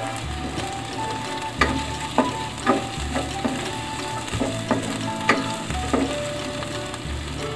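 Garlic and onion sizzling in oil in a stainless steel pan while a spatula stirs them, knocking and scraping against the pan about five times.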